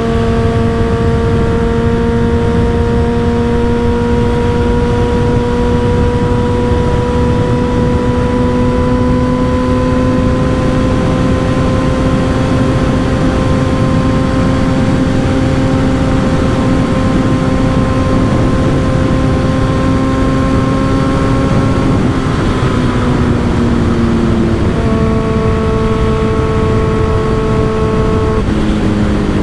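Motorcycle with an M4 aftermarket exhaust cruising under steady throttle, its engine note slowly climbing, with heavy wind noise on the microphone. About three-quarters of the way in the note drops as the rider eases off, then it settles at a steady pitch and changes again near the end.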